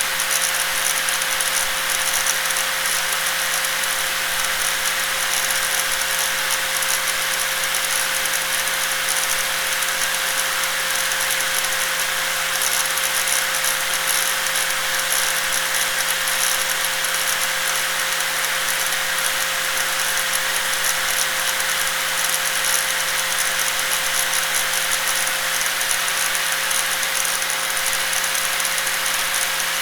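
Angle grinder running continuously at a steady speed: a constant whine over a dense rushing hiss.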